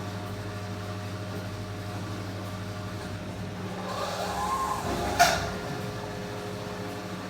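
Washing machine running with a steady motor hum. A swishing swell comes about four seconds in, and a single sharp click follows just after five seconds.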